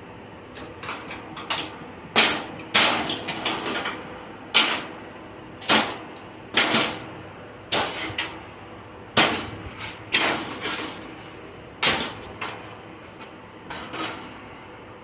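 Repeated sharp metal blows, about a dozen spaced roughly a second apart, each followed by a brief rattling ring.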